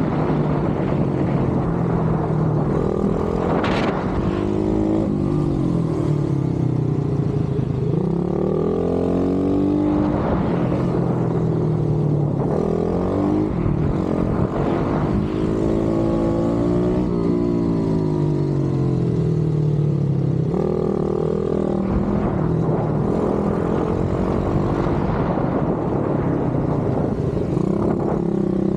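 Single-cylinder pit bike engine at speed, its pitch repeatedly rising and falling as it accelerates and then backs off, several times over.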